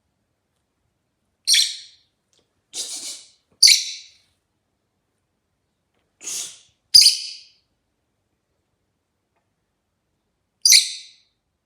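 Rosy-faced lovebird giving short, shrill chirping calls, four loud ones spaced a few seconds apart, with two softer, raspier calls in between.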